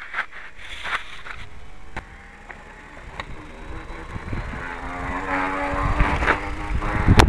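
Radio-controlled MM450 motorcycle's motor whining, rising and growing louder through the second half as the bike is driven, over scattered clicks and knocks. A sharp knock comes near the end.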